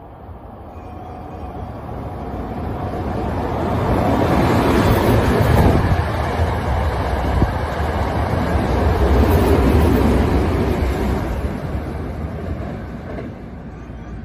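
Hankyu 9000 series express electric train passing through a station at speed without stopping. The rushing rumble of wheels on rail and air builds over a few seconds, stays loud for several seconds as the cars go by, then fades away.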